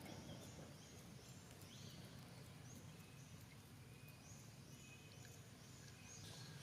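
Faint outdoor background with many short, high-pitched chirps from small birds, repeating a few times a second over a low steady rumble.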